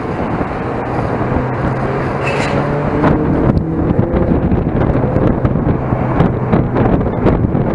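Mazda MX-5's four-cylinder engine running under load at track speed, heard onboard, with heavy wind buffeting on the microphone.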